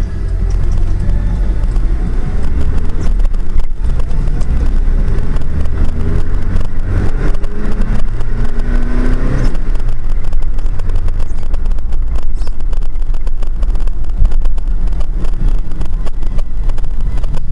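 Car engine and road noise, a heavy low rumble throughout. Through the middle an engine note rises in pitch, then drops away suddenly about halfway through, leaving the rumble with a scatter of small clicks.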